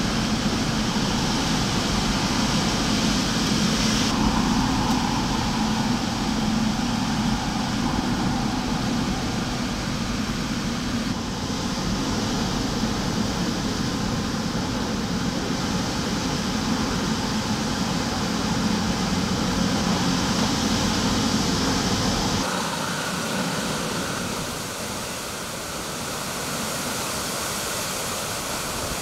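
Hurricane-force wind blowing steadily as a dense rush of noise, with a low rumble and a hum underneath. The sound shifts abruptly about 4, 11 and 22 seconds in. After the last shift the low rumble drops out, leaving a thinner, even hiss.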